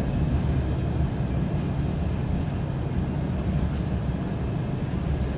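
DR1A diesel train running: a steady low rumble of the engine and running gear, with faint scattered clicks.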